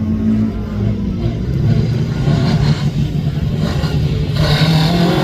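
Rally car engine running under acceleration, its note climbing slowly in pitch and growing louder, with a harsher high edge added from about four seconds in.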